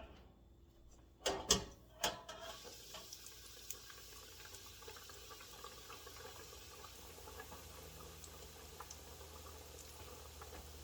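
Breaded chicken drumsticks deep-frying in hot oil in a pan: a steady sizzle with scattered small crackles. A few knocks about a second to two seconds in.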